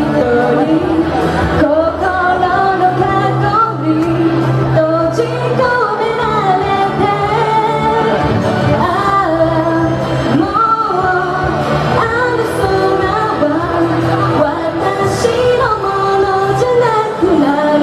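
A woman singing an Asian pop song over a backing track.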